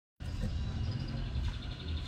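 Low steady rumble of background noise, with faint thin high tones above it; it starts abruptly just after the beginning.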